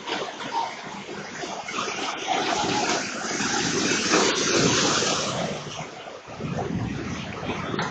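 Floodwater splashing and surging across a street, a dense rushing noise that swells loudest around the middle.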